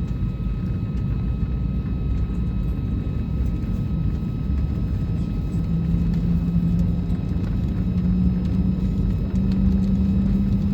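Steady low rumble inside an Airbus A320 cabin on the ground, with a low hum that comes in about halfway through and steps up in pitch twice.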